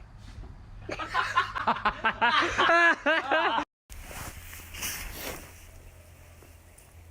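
A person laughing hard in quick repeated bursts for about two and a half seconds, then cut off suddenly.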